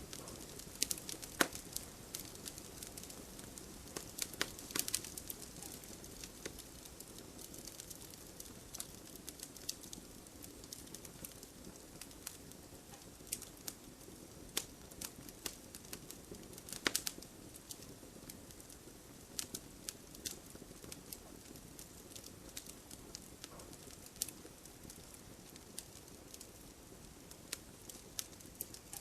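Wood fire burning in a home fireplace, crackling and popping irregularly over a low steady hiss.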